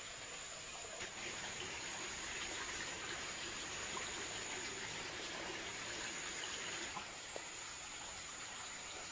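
Water trickling steadily, with a few faint clicks.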